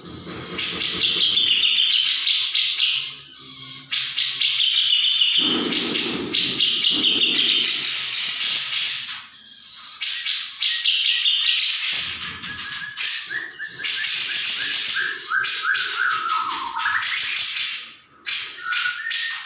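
Brown-cheeked bulbul (cucak jenggot) calling: long runs of harsh, rapid chattering. In the second half comes a string of short whistled notes that step down in pitch.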